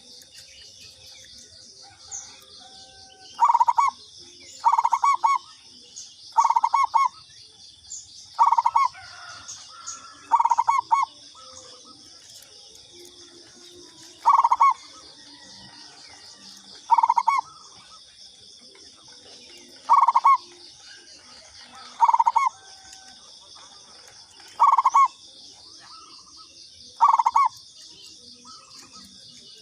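Zebra dove (perkutut) cooing: eleven short, trilling coos, one every two to three seconds, over a steady high insect buzz.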